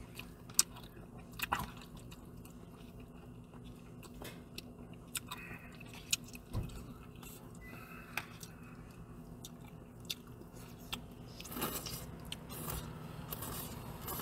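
A person chewing a mouthful of noodles, with scattered sharp clicks and a noisier stretch of eating sounds near the end.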